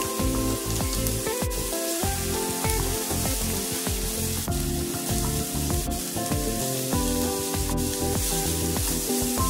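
Diced onion frying in oil in a frying pan, sizzling steadily as a wooden spoon stirs it.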